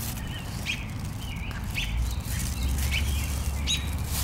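Small birds chirping in short, separate calls, about one every half second to second, over a steady low rumble.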